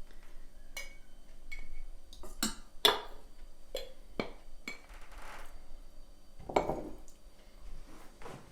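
Dishes and cookware being handled in a kitchen: a string of irregular clinks and knocks, a few with a short ring, the loudest about three seconds in.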